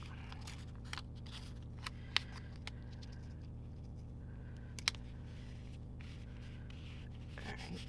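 Handling of paper stickers on a planner page: a few scattered sharp clicks and taps, two of them louder, as a sticker is peeled and pressed down, over a steady low hum.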